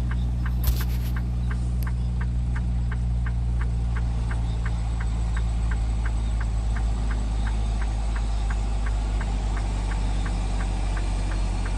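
Semi truck's diesel engine idling steadily, with the four-way hazard flasher clicking evenly at about three clicks a second.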